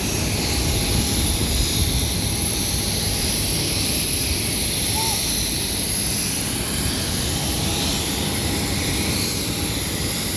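Jet airliner noise: a steady, loud roar with a constant high-pitched whine over it.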